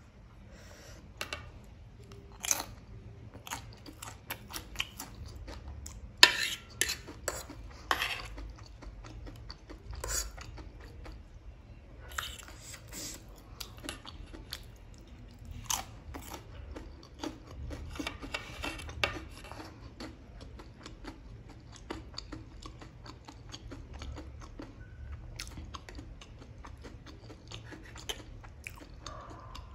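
Close-miked chewing and crunching of Pringles potato chips and Maggi noodles, in irregular sharp crunches, loudest about six to eight seconds in. A fork clicks and scrapes on a plate now and then.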